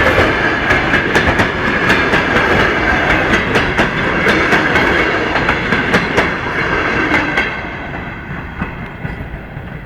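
Passenger train rolling past, its wheels clicking rhythmically over rail joints with a steady high ringing, then fading away about seven and a half seconds in as the train moves off.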